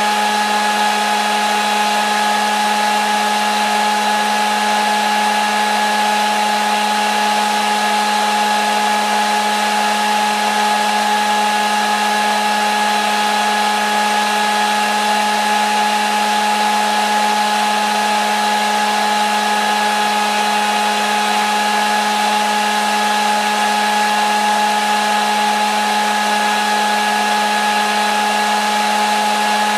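Hair dryer running steadily: a constant rush of air with a steady motor hum and whine, unchanging throughout.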